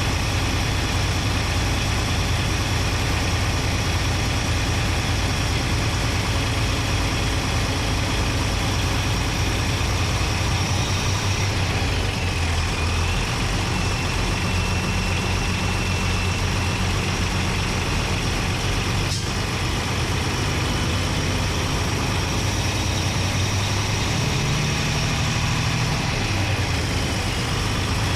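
Paccar MX-13 inline-six diesel running steadily under the hood of a Peterbilt 389 on the road, heard from inside the engine bay: a constant drone under heavy rushing hiss, the low engine note shifting a couple of times, with one short click about two-thirds of the way through.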